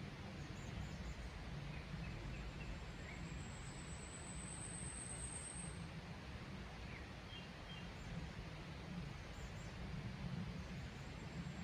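Mountain forest ambience: a steady low rushing background with a few faint bird chirps. A thin, very high-pitched drawn-out note slowly rises over about five seconds and starts again near the end.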